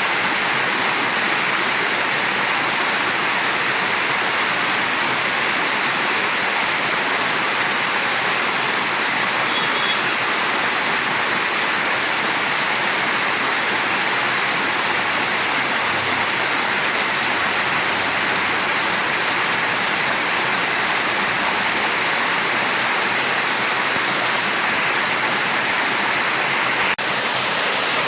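Mountain stream: water rushing in a steady, even wash of noise.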